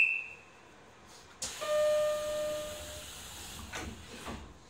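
Station sounds inside a Nishitetsu 9000 series electric commuter train standing at a platform: a brief high beep, then about a second in a sudden loud hiss with a steady mid-pitched tone lasting about a second and a half, followed by a few short knocks.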